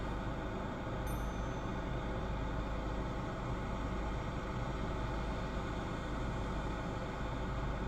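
Steady low engine hum with an even hiss, heard from inside a car's cabin as the car idles.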